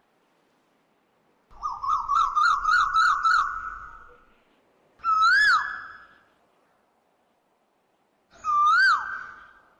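A bird's whistled calls. A warbling trill of about four quick notes a second runs for about two seconds, then a single note rising and then dropping sharply comes twice, a few seconds apart.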